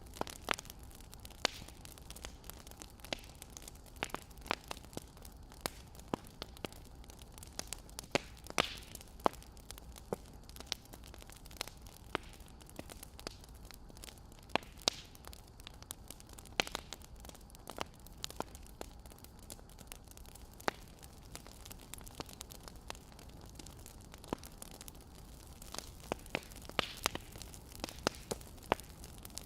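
Wood fire crackling: irregular sharp pops and snaps, a denser run of them near the end, over a faint steady hiss.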